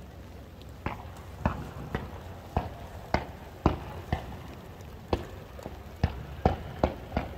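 Fireworks being fired: a string of sharp reports, about two a second, starting about a second in, as a row of comets with glittering tails climbs into the sky.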